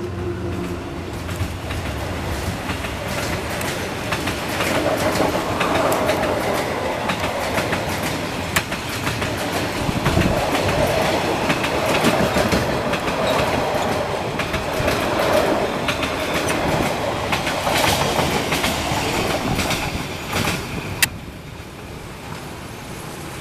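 Passenger coaches of a train rolling past close by: a steady rumble with the clickety-clack of wheels over rail joints. About 21 s in there is one sharp click and the sound falls away as the last coach passes.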